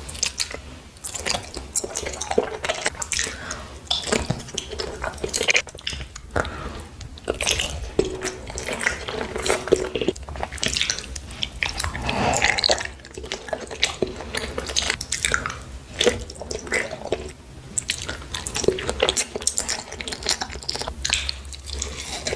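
Raw corn being bitten and chewed close to the microphone: a dense, irregular run of short crunchy clicks.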